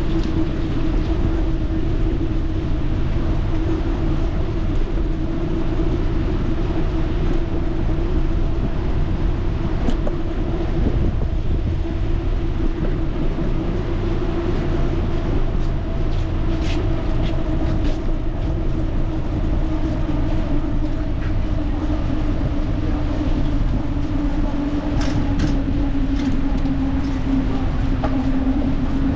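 Riding noise from a moving bicycle: wind rumbling on the microphone with a steady hum underneath that dips slightly in pitch near the end. A few faint clicks come through.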